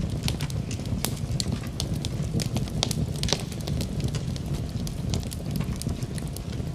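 Wood fire in a fireplace crackling, with frequent irregular sharp pops and snaps over a steady low rumble of wind.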